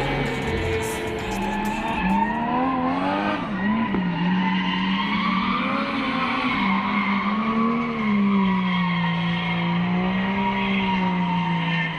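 A car engine held at high revs, its pitch wavering up and down, with tyres squealing as the car drifts on the track.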